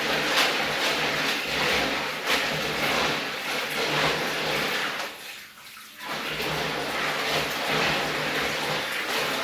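Water running and splashing as dried beans are washed by hand, with a short break about five seconds in.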